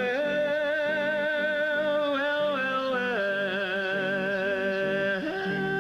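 Barbershop male voices singing held close-harmony chords on sustained vowels with vibrato. The chord shifts about two, three and five seconds in, while a low voice pulses in a steady rhythm underneath.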